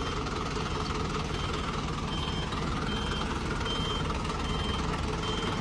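Heavy truck's reversal alarm beeping steadily, short high beeps just under a second apart, over the steady rumble of a running diesel engine.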